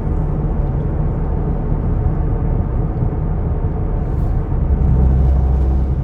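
Steady low rumble of engine and tyre road noise inside a moving vehicle's cabin, growing a little louder and deeper about four and a half seconds in.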